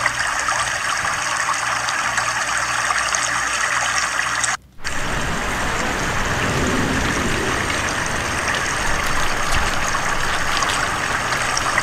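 Steady rain falling on a swimming pool, a constant hiss of water. The sound cuts out for a moment a little before halfway, then returns with more low rumble beneath the hiss.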